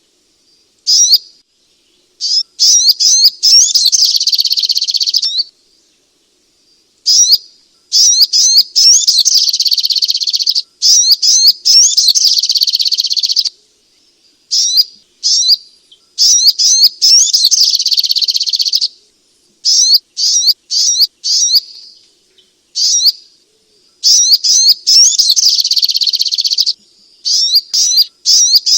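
Sogok ontong sunbird song: loud, high-pitched, rapid twittering in bursts of one to several seconds, full of quick rising and falling notes, broken by short pauses.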